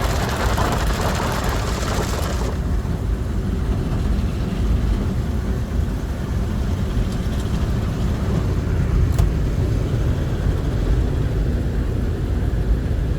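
Ryko SoftGloss XS automatic car wash spraying water onto the car: a loud hissing spray that cuts off suddenly about two and a half seconds in, leaving a steady low rumble, with a single click near the end.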